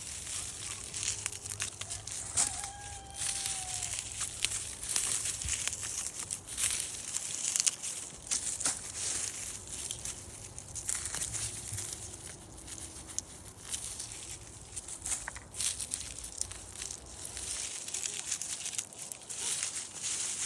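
Dense, irregular crackling and rustling of dry plant material being handled, continuing without a break.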